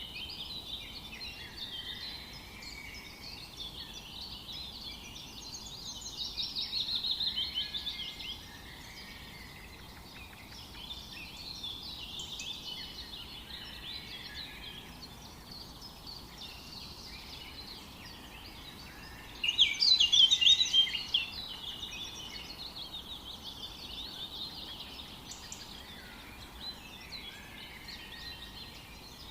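Several birds singing and chirping together over a steady faint background hiss. One bird sings a quick run of notes about six seconds in, and a louder, closer burst of rapid notes comes about twenty seconds in.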